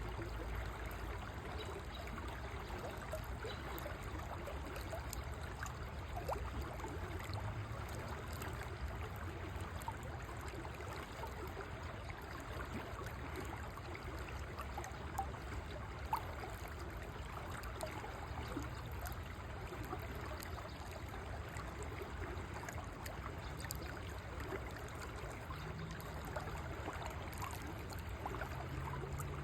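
River water flowing and babbling steadily over stones, an even rushing and gurgling with a low rumble underneath. There is one brief tap about halfway through.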